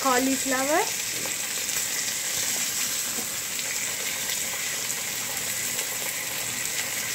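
Peanuts, urad dal and chopped vegetables frying in hot oil in a pot, a steady sizzle.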